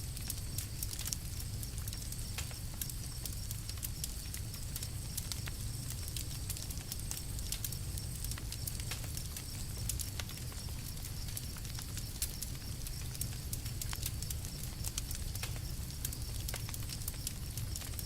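Campfire crackling, with many small irregular pops and snaps over a steady low rumble.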